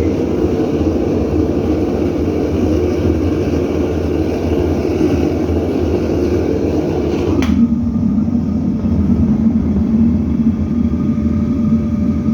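Gas-fired melting furnace's burner running with a loud, steady roar. About seven and a half seconds in there is a sharp click, and the sound turns abruptly duller, leaving a steady low hum under the roar.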